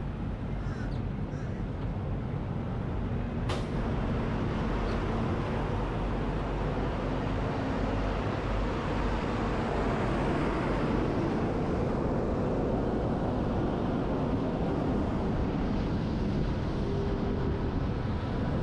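A truck driving, heard through a camera mounted on its roof: steady wind and road noise that grows a little louder, with a sharp click about three and a half seconds in.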